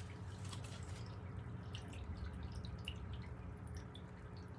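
Quiet room tone: a steady low electrical hum with faint scattered small clicks.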